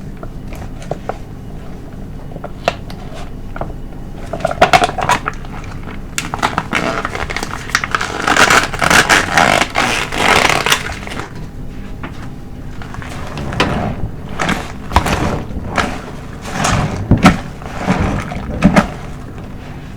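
Car wash sponge soaked in body soap being squeezed by hand: wet squelching and crackling foam. Faint ticks at first, then a long loud stretch of squeezing from about four seconds in, then several shorter squeezes.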